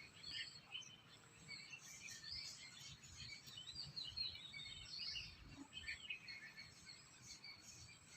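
Faint outdoor ambience of small birds chirping, with many short calls overlapping throughout.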